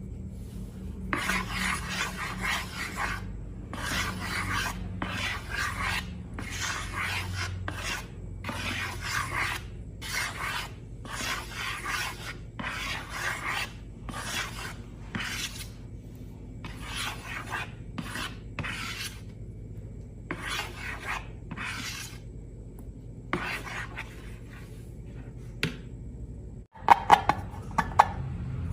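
Rhythmic rubbing and scraping strokes, about one a second, as slime is worked by hand or with a tool. A few sharp clacks come near the end.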